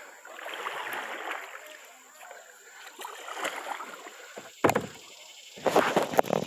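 Water splashing and sloshing around a kayak being paddled, with a sharp knock about four and a half seconds in and louder splashing and clattering near the end.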